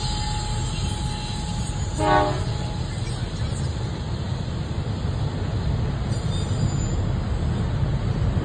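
Freight train running past with a steady low rumble of wheels on rail, and one short blast of the locomotive horn about two seconds in.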